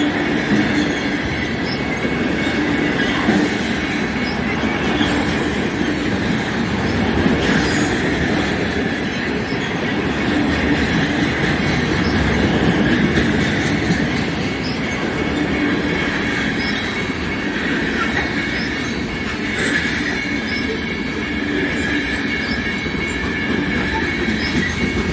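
Cars of a long CN mixed-freight train rolling past at a steady pace: a continuous rumble of steel wheels on the rails, with a thin, steady, high wheel squeal over it.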